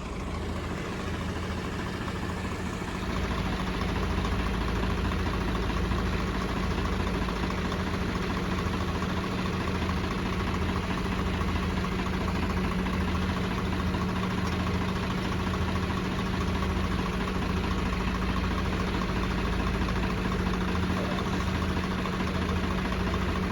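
Tractor diesel engines running steadily while pulling under load, getting louder about three seconds in.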